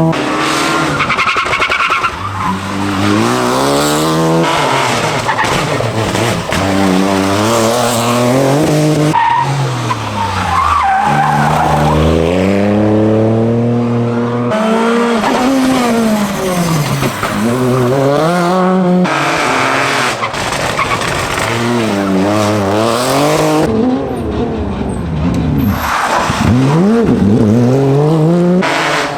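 Rally car engines revving hard, pitch climbing through each gear and dropping on the shifts and lifts, again and again. The sound changes abruptly several times as one car's pass gives way to another's.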